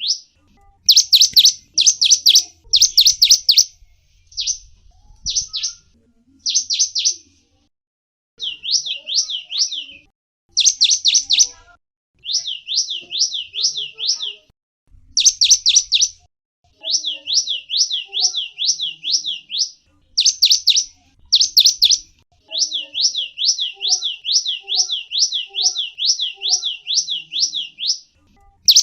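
A songbird known in Indonesia as the gelatik wingko singing. It gives loud, high chirps in quick runs of about four or five notes a second, in phrases of one to three seconds with short pauses between them.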